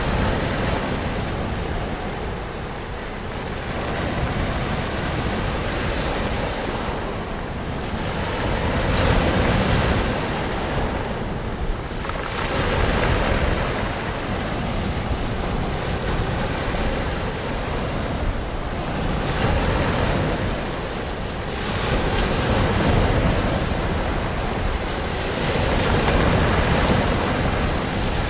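Ocean waves breaking and washing on shore, a continuous surf rush that swells and eases every few seconds.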